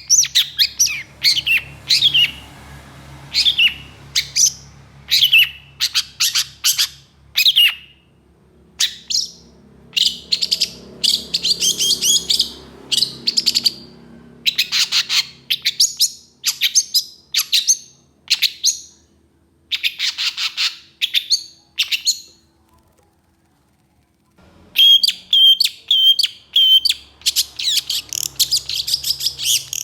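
Long-tailed shrike (cendet) singing fast runs of short, harsh notes in the rough 'tembakan' style. It breaks off for a second or two near the end, then resumes with a quick series of repeated notes.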